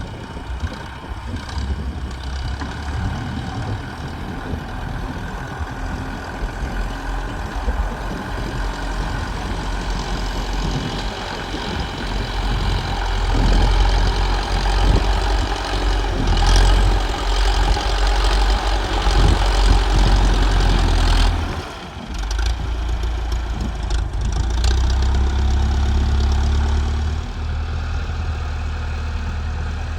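Tractor engine running steadily. It grows louder for several seconds at a time, with a brief dip in between, as it takes and sheds load.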